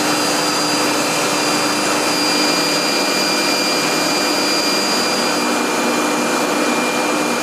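Steady, loud running noise of industrial machinery in a plant workshop, a continuous even roar with a few constant whining tones in it.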